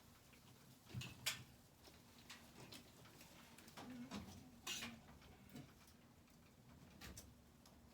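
Quiet room with a few faint, scattered clicks and knocks of things being handled, the sharpest about a second in and again near the middle.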